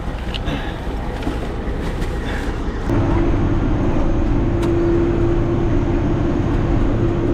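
Silage truck's engine running, heard from the cab. About three seconds in, the level steps up and a steady droning hum sets in.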